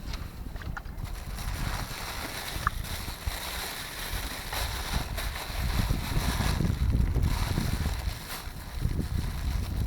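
Strong wind buffeting the microphone: an uneven low rumble that swells and dips, with a steady hiss above it from about a second in.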